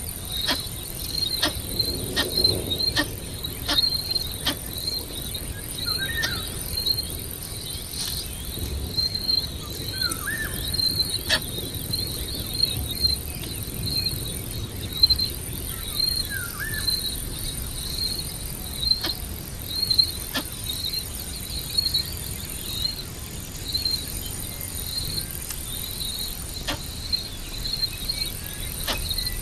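Insect, likely a cricket, chirping in a steady even rhythm, high-pitched and repeating throughout, with scattered sharp clicks and a few short rising chirps of another animal.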